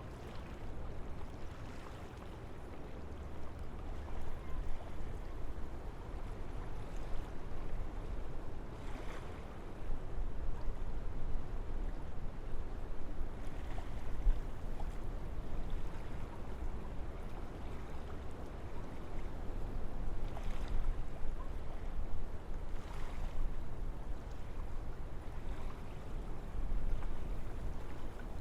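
Wind blowing through forest trees: a steady, deep rushing noise that swells and eases in gusts.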